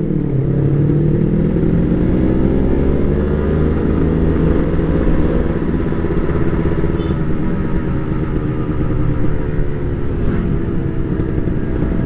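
Motorcycle engine pulling under load while riding, its pitch rising over the first five seconds or so, then holding steady and easing slightly near the end.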